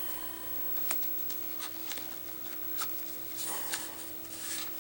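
Light clicks, taps and rustling from a laptop SATA hard drive in a rubber housing being worked into its drive bay by hand, over a steady low hum.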